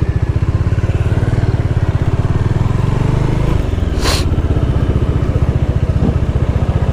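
Motorcycle engine and exhaust pulsing steadily while riding. It eases off about three and a half seconds in, with a brief hiss just after.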